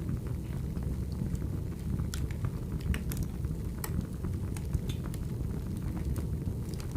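Burning firewood: a steady low rumble from the fire with irregular sharp crackles and pops scattered through it.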